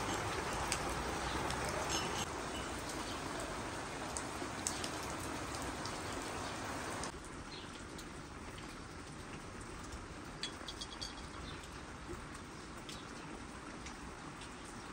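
Steady rain falling on a wet paved courtyard, a dense hiss with drops ticking on nearby surfaces. About halfway through it cuts off suddenly to a quieter outdoor hush with a few short bird chirps.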